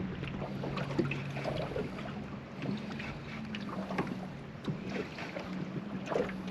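Boat motor humming steadily at a low pitch, dropping out briefly a few times, with scattered faint clicks.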